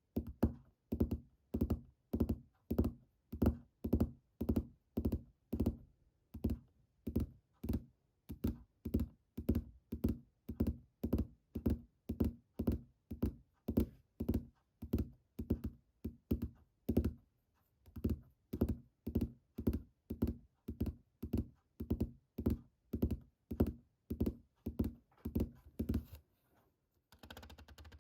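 Fingers tapping steadily on an object, about two dull taps a second, with a brief gap about two thirds of the way through; the tapping stops near the end.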